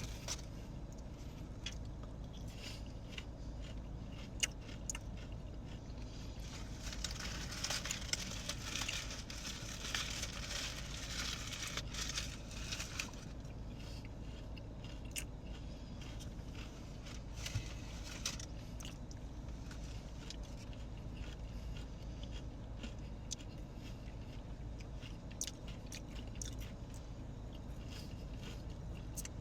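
Faint close-up chewing of crispy tater tots, with scattered small crunches and clicks. About seven seconds in there is a stretch of soft rustling lasting a few seconds.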